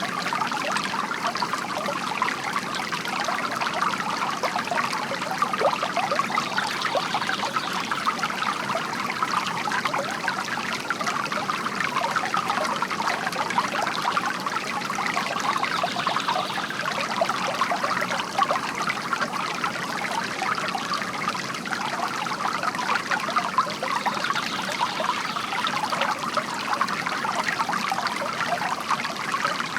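Water from a bamboo garden fountain trickling and splashing steadily into its basin, with no pauses.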